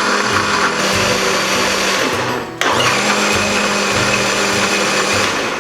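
Electric blender grinding a spice paste of turmeric, galangal, ginger, garlic and shallots. It cuts off briefly about two and a half seconds in, then runs again.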